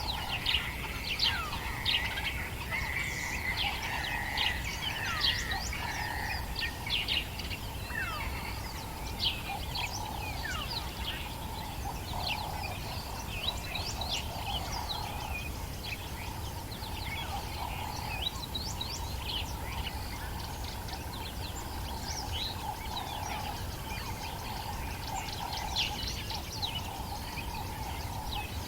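Dawn chorus in the African bush: many birds chirping and trilling over one another, with a steadier band of lower calls running beneath the quick, high notes.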